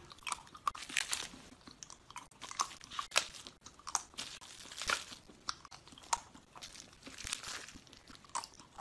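Someone biting and chewing frozen chocolate pieces: irregular sharp crunches and cracks as the hard, frozen chocolate breaks between the teeth.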